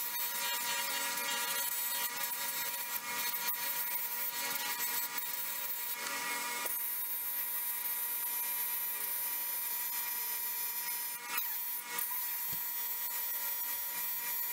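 Small power-tool motor, such as a bench buffing or fibre wheel, running at a steady whine while metal is pressed against it with a rasping rub. The rubbing is busiest for the first six seconds or so, then lightens, with a couple of sharp knocks about eleven to twelve seconds in.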